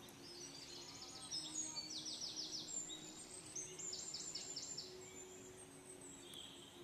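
A songbird calling in three quick runs of high, downward-sliding notes, four to six notes a run, over a faint steady low hum.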